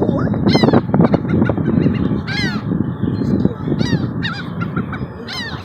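Seagulls calling: four sharp, repeated cries about every second and a half, over a steady low rushing noise.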